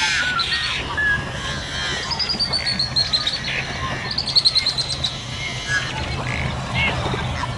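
Black duckling peeping: quick runs of high-pitched peeps, several stepping down slightly in pitch, over a low steady hum.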